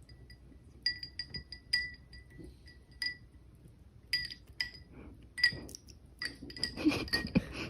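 Glassy clinking: repeated light knocks, each ringing briefly at the same high pitch. They come irregularly and grow busier near the end.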